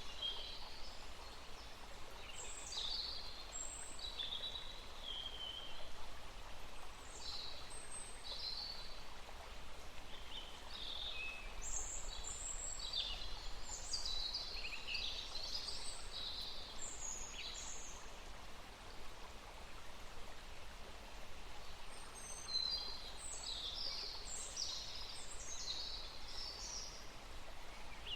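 Songbirds singing in quick phrases of chirps and short whistles, several overlapping, over a steady background hiss; the song pauses for a few seconds about two-thirds of the way through, then resumes.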